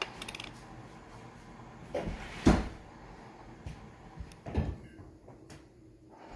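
A watch and small tools being handled on a hard surface during a battery change: a few light clicks near the start, a loud knock about two and a half seconds in, and another knock about two seconds later.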